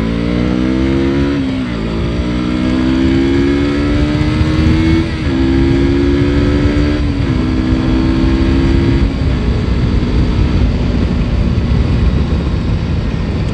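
KTM RC sport motorcycle's single-cylinder engine accelerating hard through the gears. Its pitch climbs in each gear and dips briefly at four upshifts, with the last one about nine seconds in. Wind rushes over the microphone at speed.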